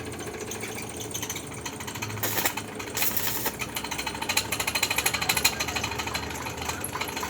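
Electric arc welding on foundation bolts: the arc crackles and sputters in a dense run of rapid pops, with two louder spurts a little over two and three seconds in. A steady low hum runs underneath.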